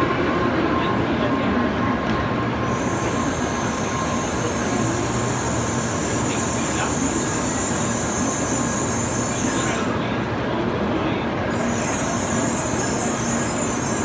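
N700-series Shinkansen train moving slowly alongside the platform, a steady rumble. A high hiss starts about three seconds in, stops about ten seconds in, and comes back near the end.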